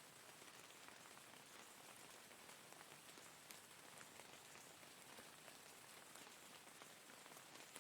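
Faint, steady rain falling, with a dense patter of individual drops ticking on surfaces.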